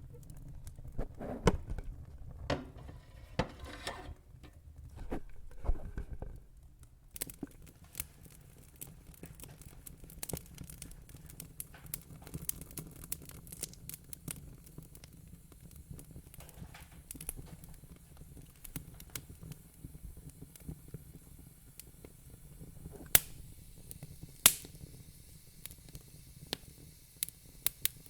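Wood fire crackling and popping with irregular sharp snaps, busier for the first few seconds, and two loud pops about five seconds from the end.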